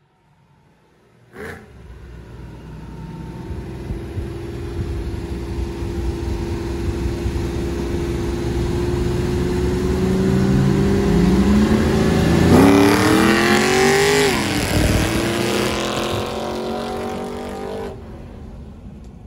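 Drag car accelerating hard down the strip. Its engine grows steadily louder and climbs in pitch, passes at full throttle about 14 seconds in, then drops in pitch and fades away.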